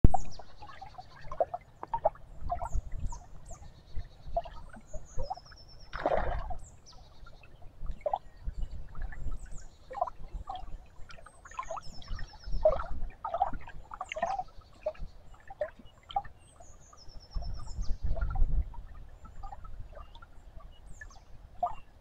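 Outdoor morning ambience of several birds chirping and calling, including short high trills, over low rumbles that come and go.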